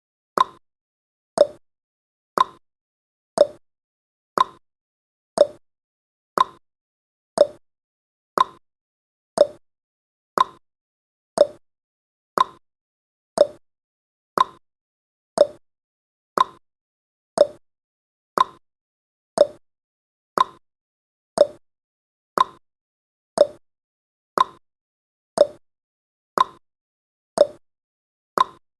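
Countdown timer's per-second tick sound effect: one short, sharp click every second, evenly spaced.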